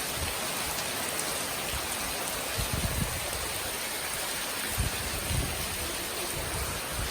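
Steady rain falling, an even hiss of water, with a few soft low thumps.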